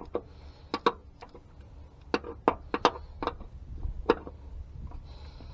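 A dozen or so sharp, irregular clicks and knocks of hard parts being handled during wiring work, over a steady low hum.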